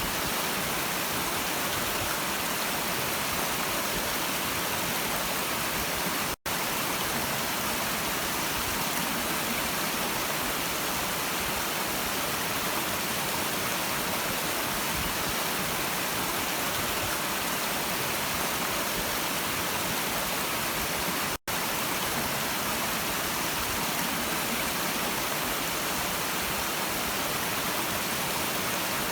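Steady rushing of a running stream, an even hiss of flowing water. Twice, about fifteen seconds apart, it cuts out to silence for an instant.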